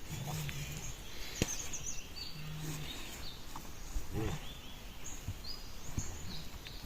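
Small birds chirping in short, scattered high calls, with a brief livestock call about four seconds in, over steady outdoor background noise.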